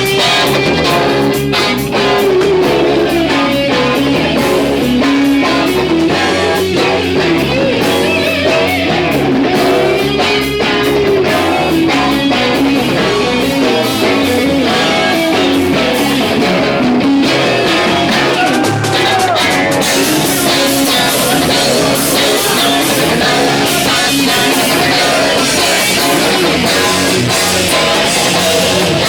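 Loud rock band playing, with electric guitar and drum kit and a wavering sung or lead line.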